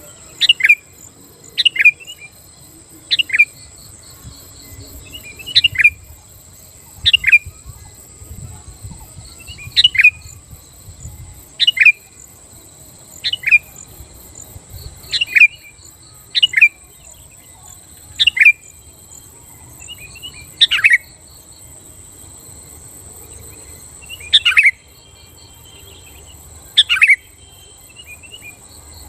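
Sooty-headed bulbul (kutilang) calling repeatedly with short, sharp notes, about one every second and a half, spaced more widely near the end. A steady high insect buzz runs underneath.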